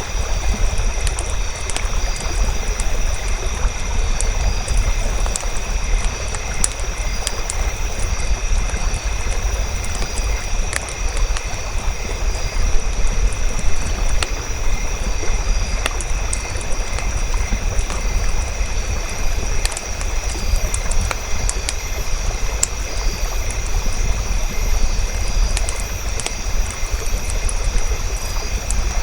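Campfire crackling and popping, with scattered sharp snaps over a steady low rumble and a noisy hiss. Several thin, steady high-pitched tones hold underneath, one of them pulsing evenly.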